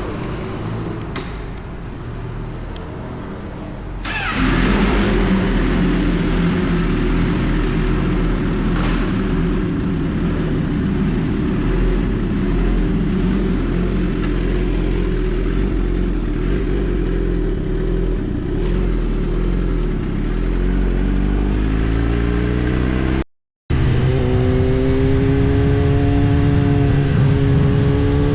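Kawasaki ZX-10R inline-four engine running while the bike is ridden. It gets louder about four seconds in, and the revs climb twice near the end, with the sound cutting out for a split second between the two climbs.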